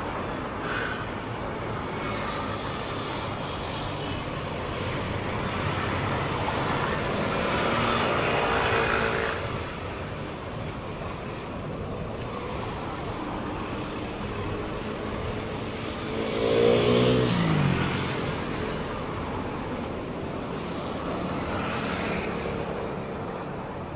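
Street traffic on a city street: a steady hum of cars, with vehicles passing close a few times. The loudest pass comes about two-thirds of the way in, its engine note falling in pitch as it goes by.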